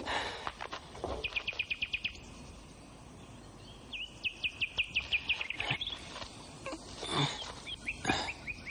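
A small songbird singing: quick runs of rapid, evenly repeated high chirping notes, three times, with a few duller broad sounds, rustles or knocks, in between.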